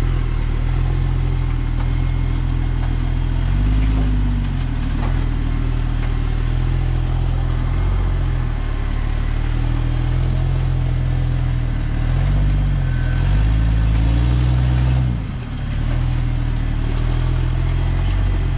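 Rock-crawling buggy's engine running at low revs as it climbs, with two short rises in revs, the longer one near the end followed by a brief drop.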